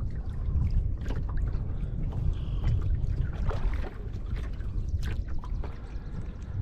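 Kayak paddle strokes through lake water: irregular drips and small splashes over a steady low rumble.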